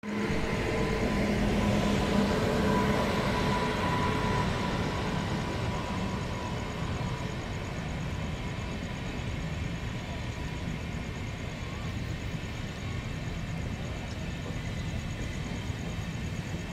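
Trains running past: the steady rumble of an express's coaches on the rails together with an approaching Mumbai suburban EMU local. For the first few seconds a hum of a few steady tones sits over the rumble, fading out about five seconds in.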